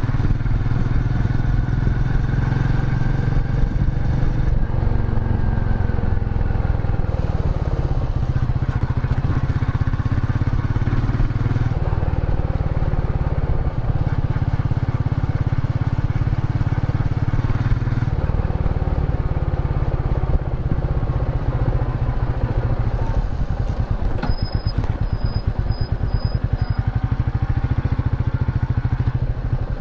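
Royal Enfield Meteor 350's single-cylinder engine running on the move, its pitch rising and falling with the throttle. Near the end it drops to a slow beat of separate firing pulses, with a short series of high beeps over it.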